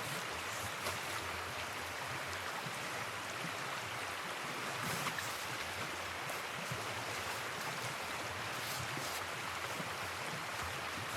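Steady rush of flowing river water, with a few faint light ticks now and then.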